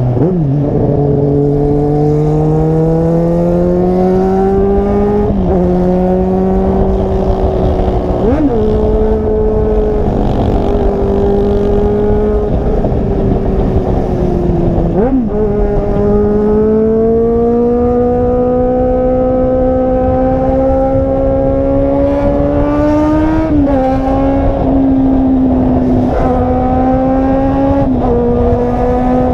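Volkswagen Jetta's engine and exhaust running loud under way. The pitch climbs slowly through each gear and drops sharply at each gear change, about four times.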